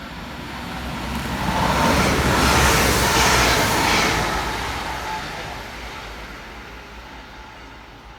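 Northern Class 195 diesel multiple unit passing fast through the station. Its running noise swells to a peak about three seconds in, then fades away.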